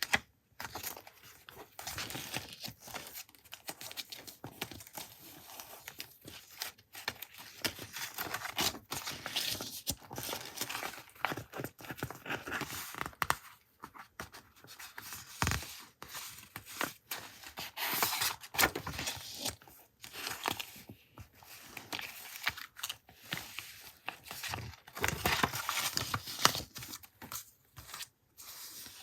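Paper being handled close up: irregular rustling, crinkling and tearing strokes, with short pauses between them.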